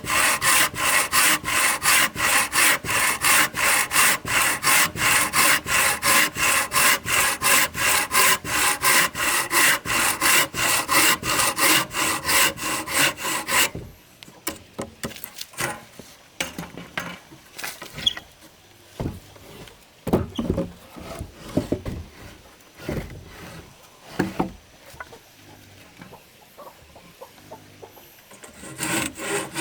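Hand saw cutting through wood in steady back-and-forth strokes, about three a second. It stops about halfway, leaving scattered wooden knocks and clicks, and the sawing starts again near the end.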